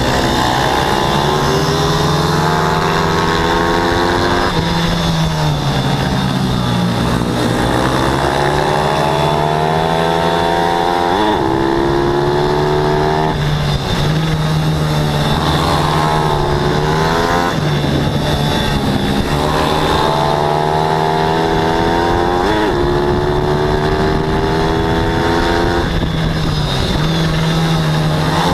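14 hp racing pit bike engine running hard at full throttle, its pitch repeatedly climbing and then dropping back every few seconds as it works through the gears and corners.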